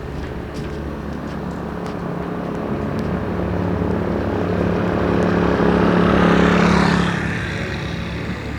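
A motor engine running steadily while a louder vehicle sound swells, peaks about six seconds in, and fades, like a vehicle passing close by.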